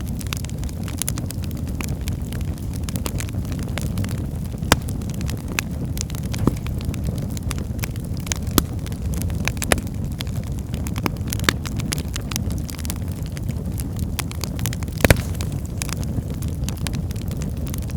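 Firewood burning in a fireplace: a steady low rumble of flame with scattered sharp crackles and pops, the loudest pop about fifteen seconds in.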